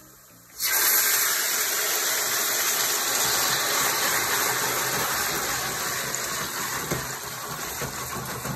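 Marinated diced chicken poured into hot oil in a wok, sizzling: a loud sizzle starts suddenly about half a second in and keeps going, easing slightly towards the end.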